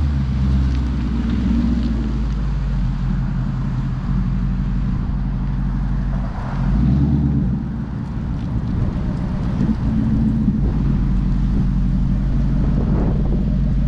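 The 2016 Ford Mustang GT's 5.0 V8 with a Roush cat-back exhaust running steadily while the car is driven, a low, even engine note. Its pitch shifts and it grows briefly louder about six to seven seconds in.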